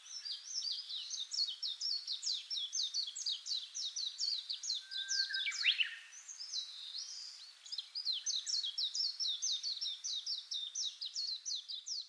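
A bird chirping in a fast, unbroken run of short, high notes, several a second. There is a brief break about halfway through with one lower falling note before the run resumes.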